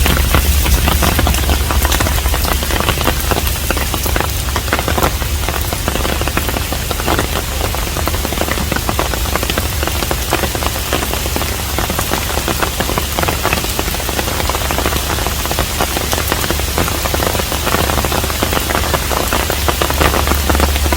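Steady rain falling on a traditional Korean hanok, a dense patter of drops with a steady low rumble underneath.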